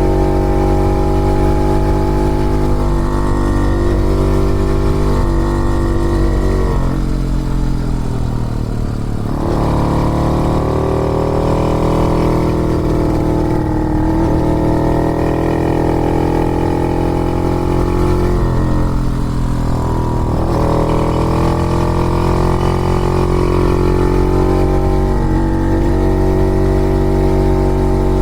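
Two-stroke single-cylinder-type engine of a 1950s Puch 250 TF motorcycle under way, its note rising and falling with the throttle. The pitch drops off about seven seconds in and climbs again from about ten seconds, then dips and rises once more around eighteen to twenty seconds.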